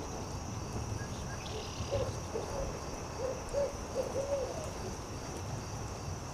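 An owl hooting: a quick run of about six short hoots near the middle. Under it runs the steady low hiss and faint crackle of a campfire, with a steady high insect drone.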